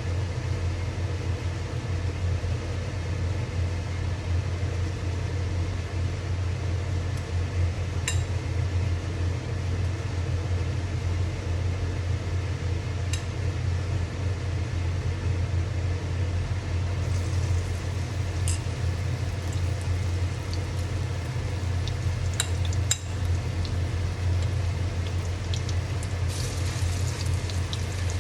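Steady low hum with a few sharp clicks, and faint crackling of pakoras frying in hot oil in the second half.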